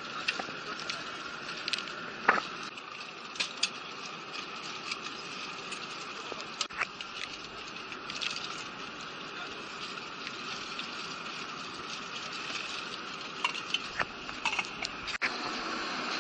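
Steady airliner cabin noise with many small sharp clicks and clatters scattered through it.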